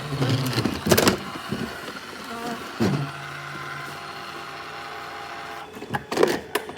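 Roomba robot vacuum's motors whirring on its charging dock: a steady mechanical hum with short louder whirs that start and stop, near the start, about three seconds in and near the end.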